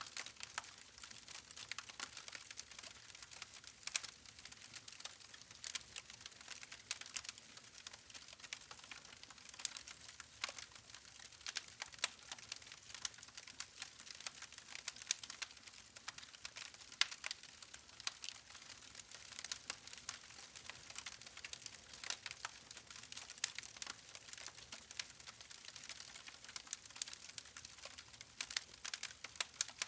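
Wood campfire crackling: many small irregular pops and snaps over a soft hiss of burning logs.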